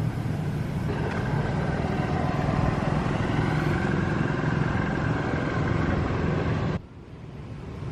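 Steady engine noise of a running motor vehicle. Near the end it suddenly drops away, then slowly builds back up.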